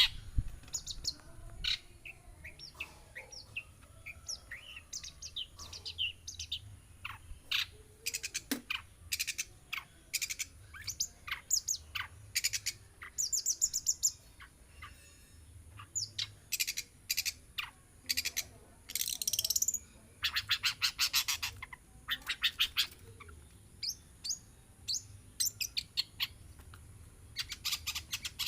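Long-tailed shrike (cendet) singing a varied run of sharp chirps and calls. It is broken by several stretches of fast, rattling repeated notes, the longest around two-thirds of the way through.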